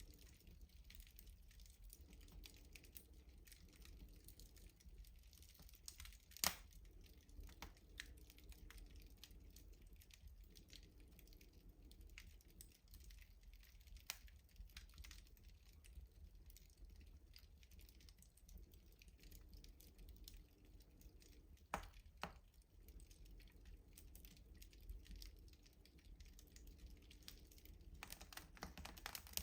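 Wood fire crackling in a rustic stove: faint, irregular small crackles, with a sharp louder pop about six seconds in and two more close together a little past twenty seconds.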